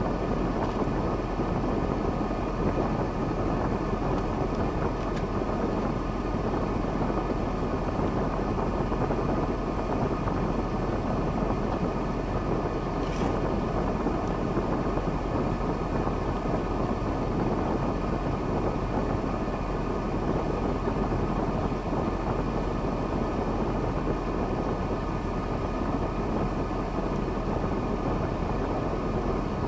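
KAMAZ timber truck's diesel engine running at a steady, even speed, with a faint click about 13 seconds in.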